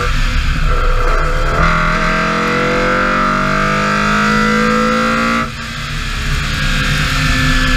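BMW E30 M3 rally car's four-cylinder engine under hard acceleration, its pitch rising steadily for about four seconds. About five and a half seconds in it drops away briefly for an upshift, then pulls again at lower revs in the next gear.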